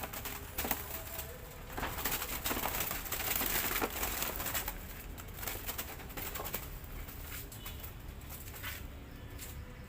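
A trapped dove flapping its wings, with rustling and clattering that is busiest in the first half and dies down toward the end.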